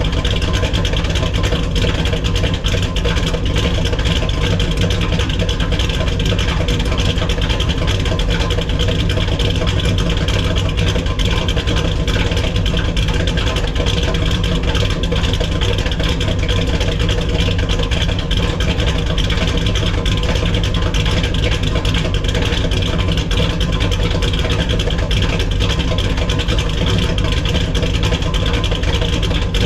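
1970 Dodge Challenger's 440 Six Pack V8 idling steadily, heard from behind the exhaust tips, as it warms up after a cold start.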